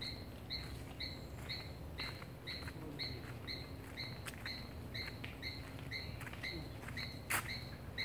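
A bird calling one short, high note over and over, about two a second, steady throughout. Light scattered clicks and one sharp snap about seven seconds in.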